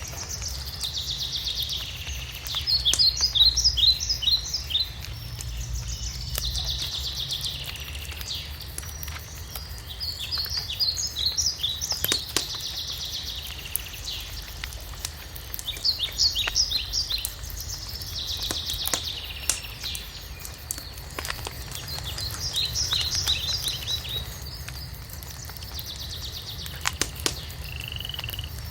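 A songbird sings the same short song over and over, about every six seconds: a fast buzzy trill followed by a run of separate high notes. Behind it a wood fire crackles with scattered sharp pops, over a low steady rumble.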